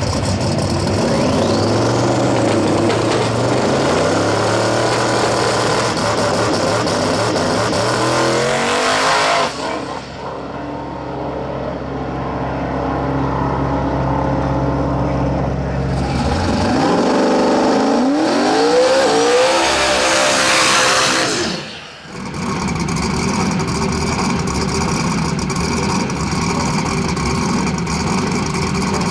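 Drag race cars running hard at full throttle, their engines climbing in pitch through the gears. A steadier, lower engine drone comes in between, and a brief dip about 22 seconds in is followed by steady loud engine noise.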